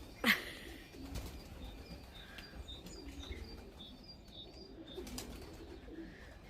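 Young racing pigeons at the loft: a loud, brief clatter of wings about a quarter second in, then a string of short high chirps, about two a second, through the middle.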